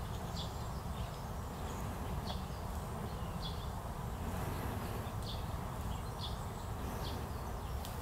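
Short, high bird chirps, about one a second, over a steady low background rumble.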